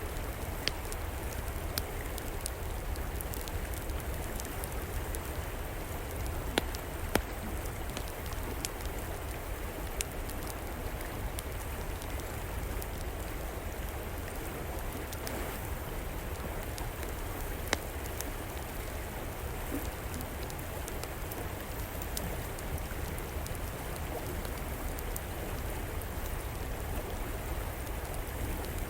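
River water flowing steadily under a crackling wood fire, with a few sharp pops scattered through it.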